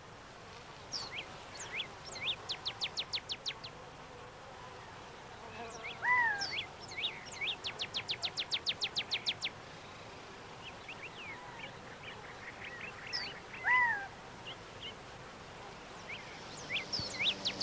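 Birds calling over quiet outdoor ambience: scattered short chirps, two rapid trills of about eight notes a second, and twice a louder downward-slurred call.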